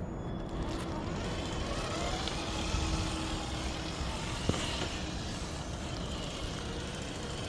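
Road traffic from a nearby highway, a steady rush with one vehicle swelling past. A single sharp click comes about halfway through.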